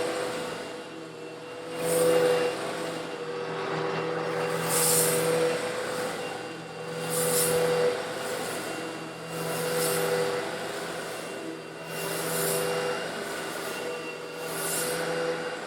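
Eureka vacuum cleaner running steadily with a hum, while it sucks up small coarse stone granules. A louder surge of hiss comes every two to three seconds as granules are drawn in.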